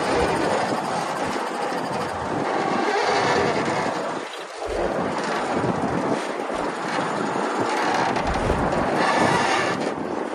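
Bulldozer working, a steady dense clatter and rumble of crawler tracks and machinery, with a brief dip about four seconds in.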